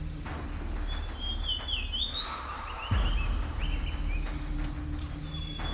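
Rainforest ambience: a steady high insect trill with a few chirping bird calls over a low steady hum, and a sudden low thump about three seconds in.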